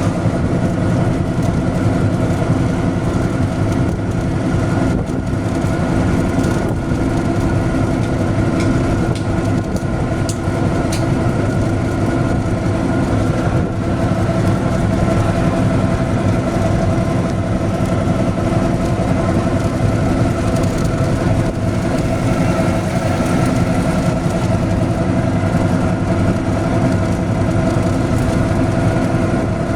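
An engine running steadily at constant speed, an even drone with no change in pitch.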